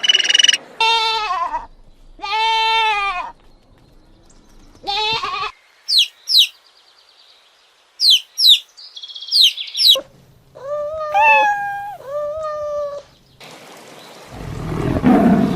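A run of different animal calls edited together: several short pitched calls, each about half a second to a second long with a rise and fall in pitch, then quick very high falling chirps, then more of the pitched calls, ending in a noisy rush near the end.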